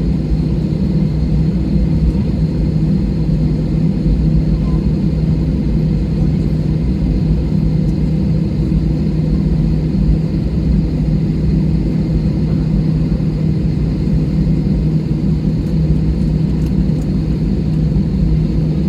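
Airliner cabin noise on the ground: the jet engines running at low power, a steady low rumble with a constant hum, heard from inside the cabin.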